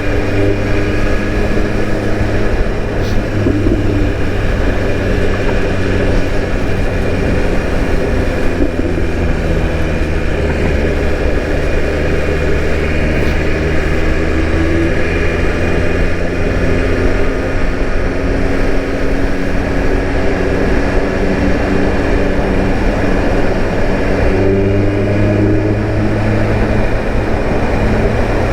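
BMW S1000 RR M's inline-four engine running steadily under way at a cruise, its pitch drifting gently up and down, with constant wind and road noise.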